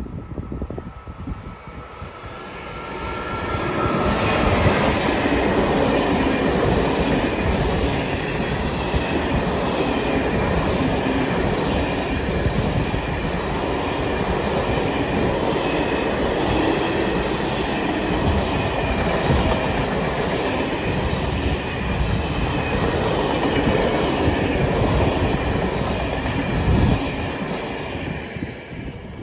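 Freight train passing close by. The sound builds over the first few seconds as the locomotive nears, then the wagons' wheels run loud and steady on the rails for about twenty seconds, fading near the end as the last wagon goes by.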